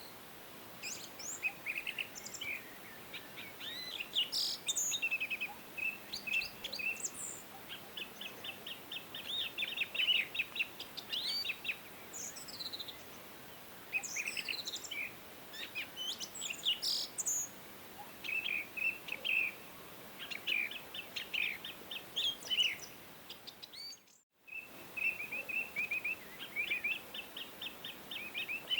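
Several songbirds singing and chirping: quick trills and short chirps overlapping throughout, over a faint steady background hiss. The sound drops out completely for a moment about 24 seconds in, then the birdsong resumes.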